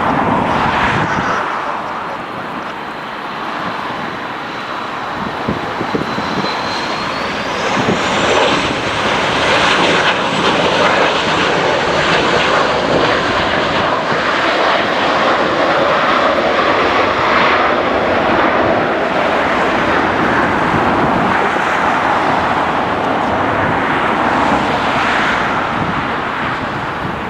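Heavy jet airliner passing close, its engines making a loud, steady rush, with a thin high whine that rises in pitch about seven seconds in as the noise swells.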